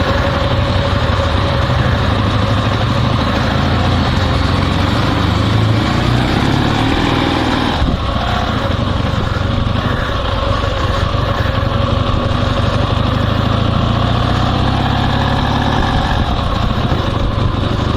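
Dnepr MT16 sidecar motorcycle's flat-twin engine running steadily under way, with a brief dip in the sound about eight seconds in.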